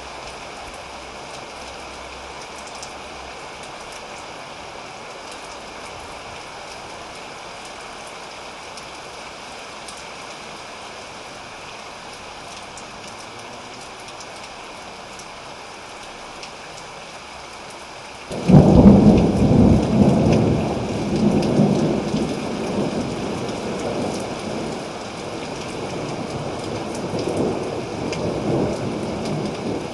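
Steady rain falling, then about two thirds of the way in a sudden loud clap of thunder that rolls on as a long rumble with several surges, slowly dying away under the rain.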